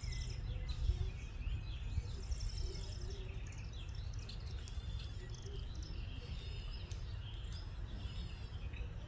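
Several songbirds chirping and calling, with a high, fast buzzy trill twice, over a steady low rumble.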